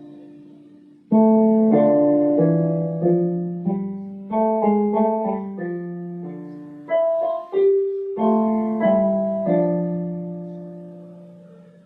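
Piano played as a slow melody over chords, each note struck and then decaying. The phrase ends near the end on a held chord that fades out.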